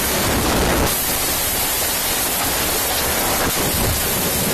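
Steady, even rushing noise with nothing pitched in it.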